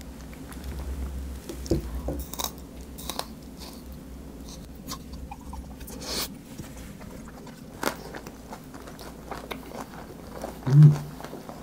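Mouth sounds of chewing and biting stir-fried udon with beef and green onion kimchi, with scattered light clicks. A short loud hum comes near the end.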